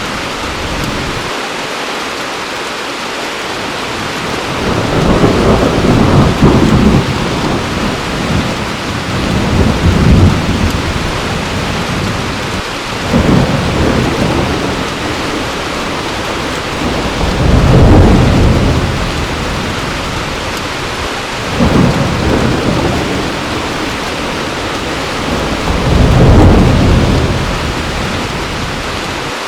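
Steady heavy rain with rolls of thunder rumbling in and fading about every four seconds, some six times.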